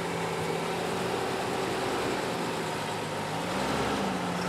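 A four-wheel-drive's engine running at low revs while crawling off-road, with the revs rising slightly about three and a half seconds in.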